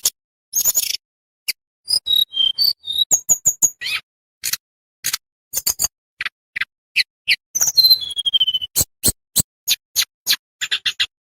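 Tledekan bambu songbird calling: a quick run of sharp, clicking high notes and short whistles, with one longer falling whistle about eight seconds in, the notes separated by silent gaps.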